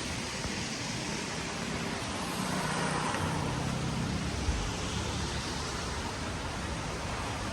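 Steady hiss of rain on a street, with a car driving past on the wet road, swelling and fading about two to four seconds in.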